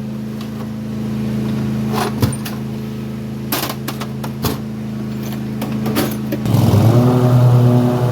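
Kawasaki FR691V V-twin engine of a Toro TimeCutter riding mower running steadily as it warms up on new ignition coils and spark plugs, with several sharp clanks over it. About six and a half seconds in, the engine gets louder and its note changes.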